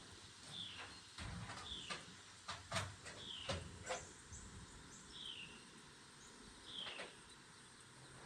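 A small bird chirping over and over, short falling chirps every second or two, with a few light clicks and knocks in the first half.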